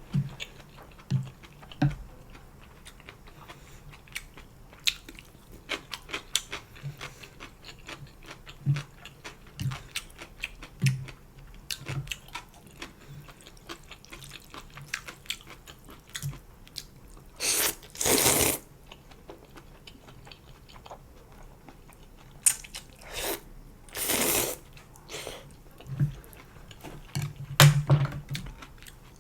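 Close-up eating sounds of janchi guksu noodle soup: steady wet chewing with many small mouth clicks and crunching bites, broken by a few longer slurps, the loudest about 18 and 24 seconds in.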